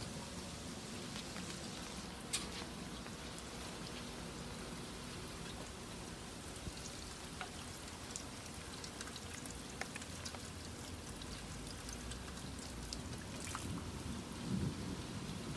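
Steady rain falling, with scattered individual drops clicking close by.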